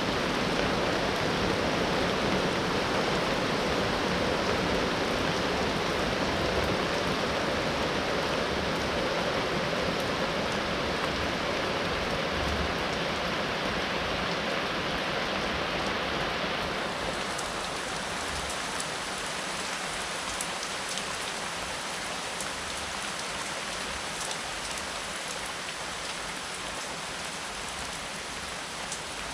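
Steady rain falling. About two-thirds of the way through, the sound turns thinner and hissier, losing its low rumble.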